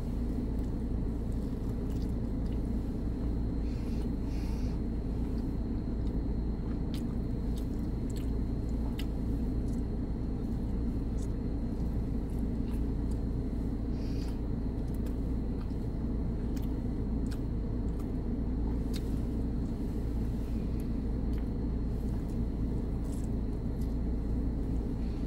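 Chewing of a bite of pepperoni pizza: soft mouth sounds with scattered small clicks, over a steady low rumble inside a car.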